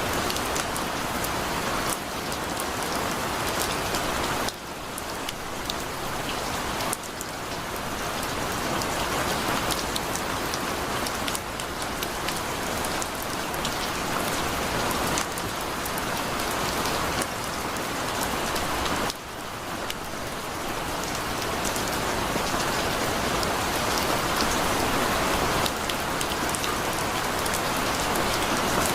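Heavy rain falling steadily, a dense hiss of drops on a surface with single drops ticking through it. The level dips suddenly a few times.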